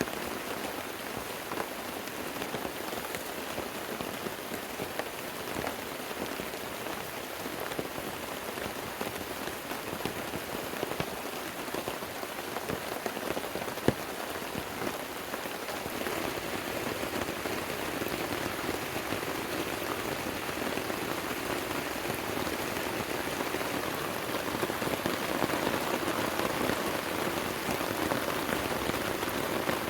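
Heavy rain falling steadily, growing heavier about halfway through and again near the end, with one sharp click about halfway.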